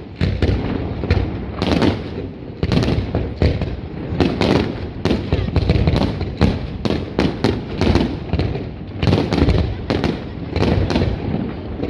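Fireworks display going off overhead: a rapid, irregular run of bangs and crackles, several a second, over a continuous low rumble.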